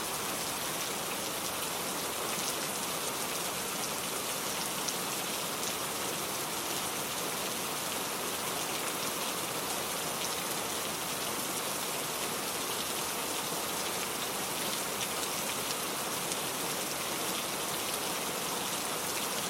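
Heavy rain falling steadily, a dense even hiss with scattered fine drop ticks.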